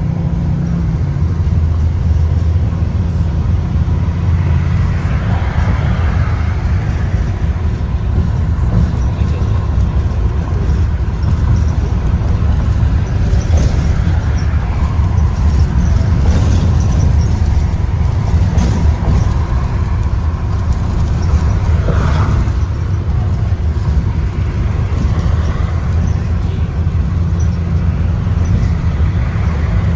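Blue Bird Vision school bus driving, heard from inside: a steady low rumble of engine and road noise, with a few brief clicks and rattles around the middle.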